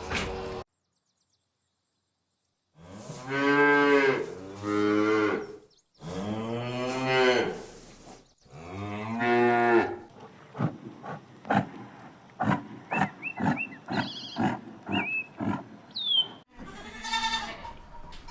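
Cattle mooing: three long, drawn-out calls with a clear pitch, then a quick run of short pulsed sounds with a few high chirps, and another long call near the end.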